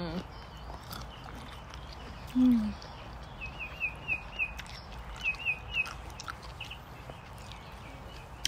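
Small birds chirping: short, quick, high chirps in little runs of three to five. About two and a half seconds in, a short, low, falling hum of a person's voice is the loudest sound.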